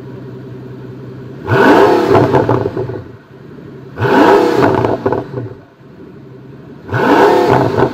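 Supercar engine idling, then revved hard three times about two and a half seconds apart; each rev rises sharply in pitch and drops back to idle with crackling exhaust pops of the kind that come with exhaust flames.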